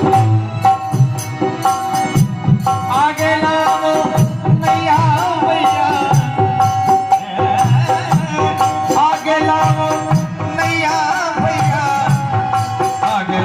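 Instrumental interlude of ragini folk music. A held drone note and a gliding, ornamented melodic line play over steady hand-drum beats.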